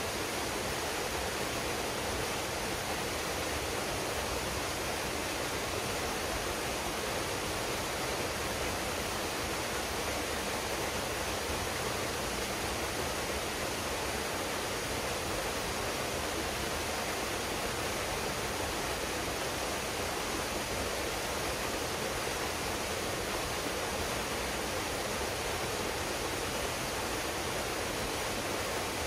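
Waterfall splashing down into a pool, a steady, even rush of falling water.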